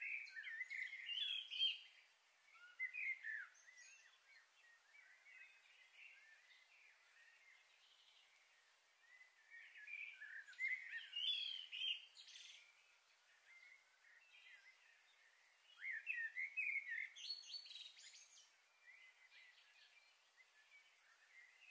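Faint bird chirps in clusters of quick rising and falling notes, coming three times (at the start, about ten seconds in, and about sixteen seconds in), over a faint steady hiss.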